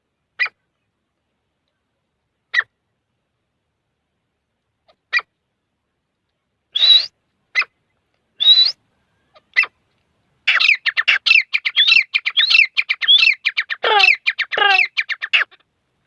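Grey francolin (desi teetar) calling. Single short call notes come a second or two apart, then about ten seconds in they break into a fast, rhythmic run of repeated notes lasting about five seconds.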